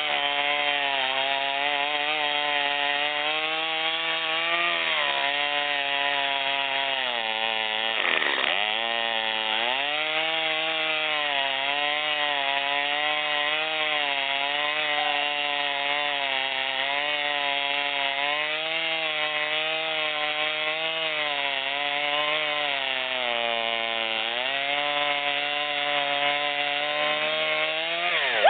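Gas two-stroke chainsaw running at high revs, its engine pitch dipping and recovering several times, most sharply about eight seconds in.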